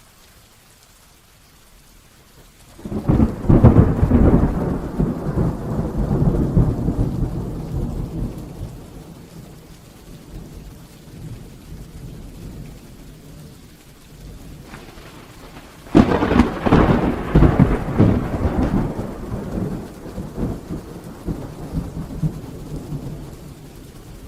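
Heavy rain falling steadily, with two claps of thunder: a sudden crack about three seconds in that rolls away over several seconds, and a second crack about sixteen seconds in that rumbles down the same way.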